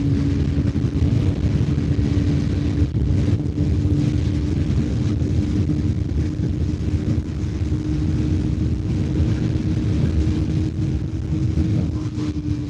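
Bajaj Pulsar NS400Z's single-cylinder engine running at high speed under steady throttle, its pitch holding nearly constant and sagging slightly near the end.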